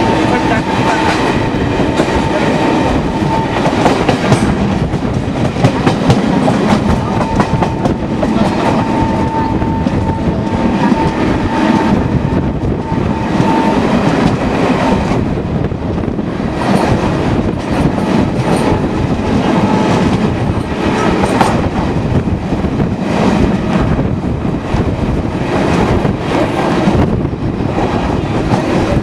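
Indian Railways passenger coach heard from inside while the train runs: a steady rumble with the wheels clacking over the rail joints. A thin steady whine sounds through the first half.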